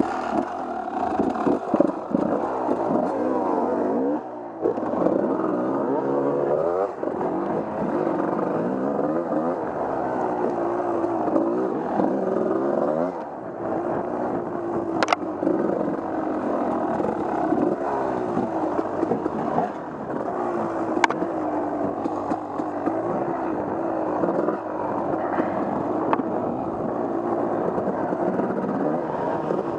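Off-road motorcycle engine riding a trail, its pitch rising and falling over and over as the throttle is worked through the gears, with a few sharp clicks along the way.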